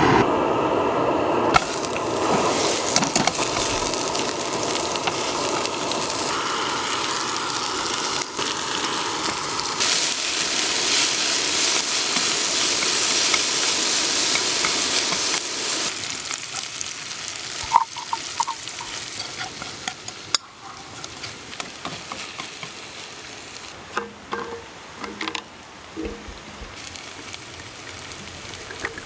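Food sizzling and frying in a hot pan, loud for the first half and then quieter, with scattered clinks of a utensil against the pan.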